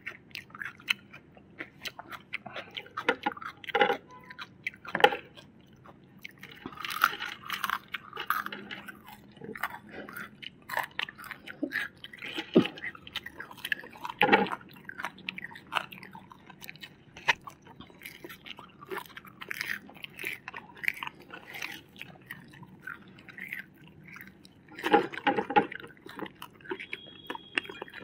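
Close-up eating sounds: people chewing and crunching crisp fried food such as French fries and fried chicken, in an irregular run of crackles and wet mouth noises. A louder flurry of crunching comes near the end.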